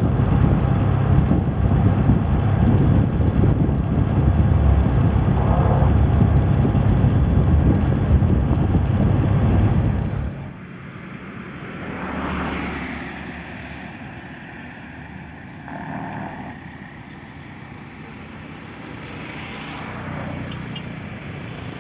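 Road noise of a moving vehicle with wind buffeting the microphone, loud for about ten seconds before dropping off sharply to a quieter, mixed background.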